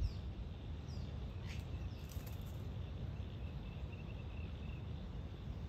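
Faint bird calls: a few short high chirps in the first two seconds, then a quick run of thin repeated notes, over a steady low rumble.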